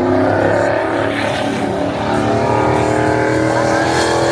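A car engine running loud and steady, its pitch climbing slightly near the end.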